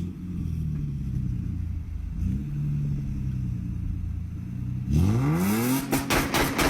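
Car engine idling with a steady low hum, then revved hard about five seconds in, its pitch sweeping up fast, followed by a rapid run of loud sharp cracks.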